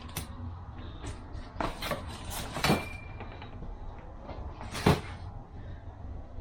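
Parts being handled and set down on a workbench: a few separate clicks and knocks, the loudest about five seconds in, one followed by a brief metallic ring.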